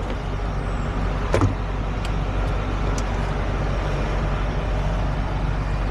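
Heavy truck's diesel engine idling steadily, with a single sharp knock about a second and a half in.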